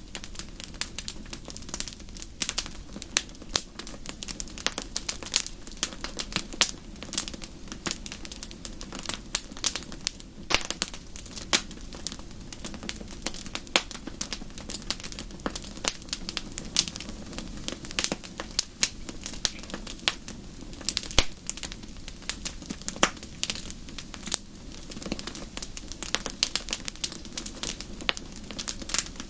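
Wood fire in a fireplace crackling and popping, with many sharp irregular snaps over a steady low rumble of the flames.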